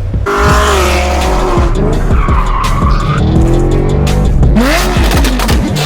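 Performance car engines revving hard with tyres squealing, the engine pitch climbing and dropping several times and rising sharply near the end.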